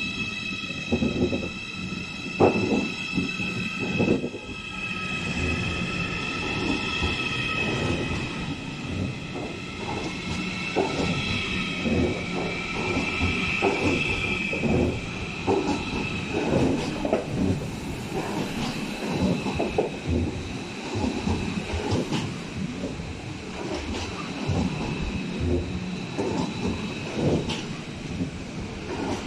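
A train rolling slowly over the station's rail joints and points. Its wheels squeal in several high, held tones that fade about halfway through, over repeated irregular clacks and knocks from the wheels.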